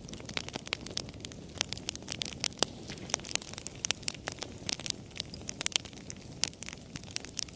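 Wood fire burning in a fireplace: a low steady rush of flame under many sharp, irregular crackles and pops.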